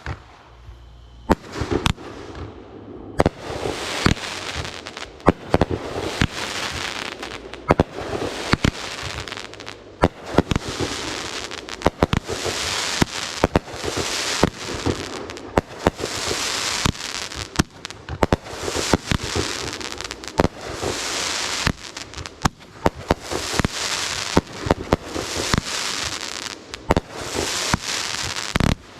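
Fireworks display: a rapid run of sharp bangs from bursting shells, joined from about three seconds in by a near-constant spray of small crackling pops.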